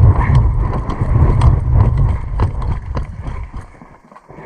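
Wind buffeting the microphone in a heavy low rumble, with a scatter of sharp clicks and knocks over it; the rumble dies away about four seconds in.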